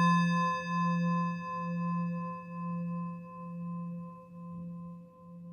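Singing bowl ringing out after a strike, fading steadily. Its low hum wavers about once a second.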